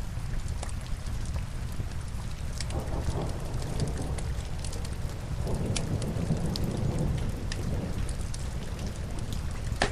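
Steady rain with a deep, constant rumble that swells twice, scattered through with sharp crackles from a log fire, one louder crack at the very end.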